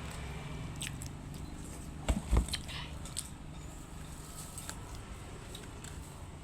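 Close-up eating sounds: a person chewing a soft steamed bun, with scattered small mouth clicks and two dull thumps a little past two seconds in, over a steady low hum.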